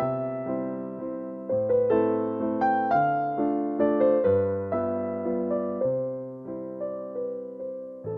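Background piano music, a gentle waltz: a low bass note about every one and a half seconds, with melody notes struck above it and left to ring.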